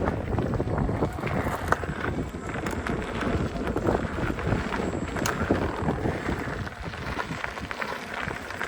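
Wind noise buffeting the microphone of a moving electric unicycle, with steady low rumble and scattered short knocks from the ride.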